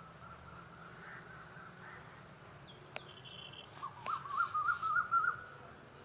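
Birds calling: a short high chirp around the middle, then a louder warbling call that wavers quickly up and down in pitch for about a second and a half, over a faint low background hum.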